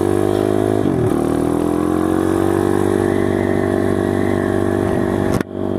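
SSR TR160 dirt bike's 160cc single-cylinder engine pulling under throttle: the pitch climbs, drops sharply about a second in as it shifts up, climbs again and settles into a steady cruise. A sudden brief dip in the sound near the end.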